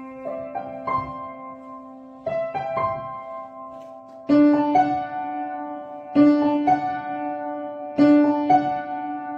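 Piano played slowly: a simple melody of single notes over held lower notes, with a louder chord struck about every two seconds in the second half. It is plausibly being composed at the keyboard.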